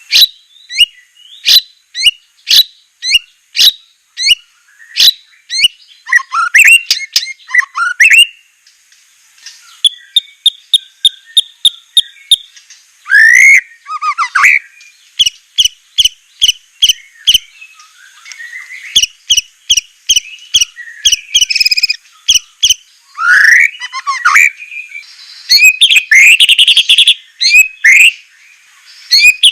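White-rumped shama (murai batu) singing: loud, sharp whistled notes repeated in quick series, with fast sweeping notes and short rattling trills between them.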